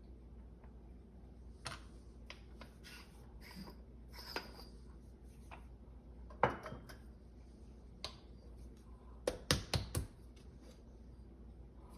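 Scattered clicks and light taps of metal coffee tools being handled while ground coffee is dosed through a dosing funnel into an espresso portafilter, with a quick run of sharp knocks about nine and a half seconds in.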